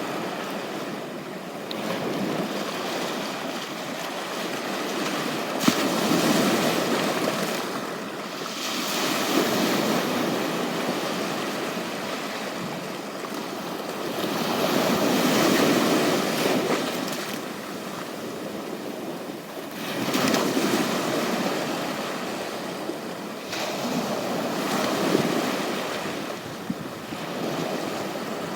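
Sea waves washing onto a beach, the surf swelling and fading every four to six seconds.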